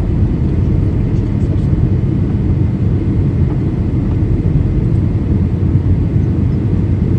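Steady low rumble inside the passenger cabin of a Boeing 737-800 in descent: airflow over the fuselage and its CFM56-7B turbofan engines, even and unchanging.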